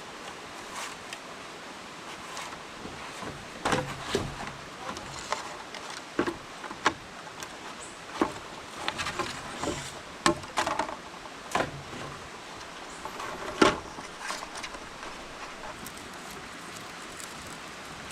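Irregular sharp knocks and clicks, a dozen or so spread through the middle, the loudest about two-thirds of the way in, over a steady background hiss.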